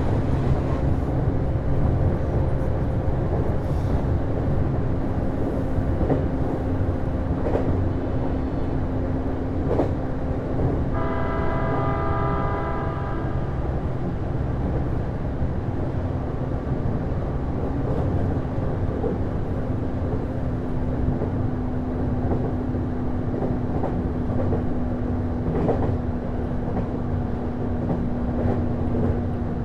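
Interior running sound of a JR East Series HB-E210 hybrid railcar: a steady low rumble from its Komatsu DMF15HZB-G diesel engine-generator and Hitachi IGBT-VVVF traction drive, with a steady hum and wheels on the rails giving a few faint clicks. About 11 seconds in, a horn sounds for about two and a half seconds.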